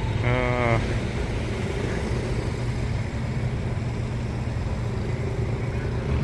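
A brief siren blast from an emergency vehicle near the start, then the steady low rumble of a vehicle engine running.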